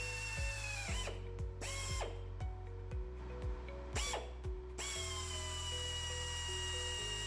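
Power drill running as it bores holes through a metal plate; the motor whine winds down and restarts a few times between about one and five seconds in, then runs steadily. Background music with a regular beat plays underneath.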